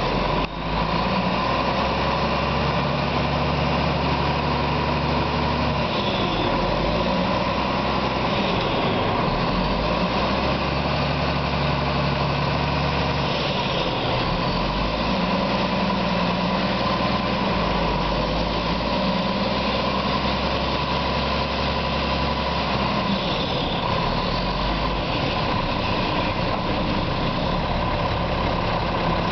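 2003 Mack MR690S front-loading garbage truck's diesel engine idling steadily.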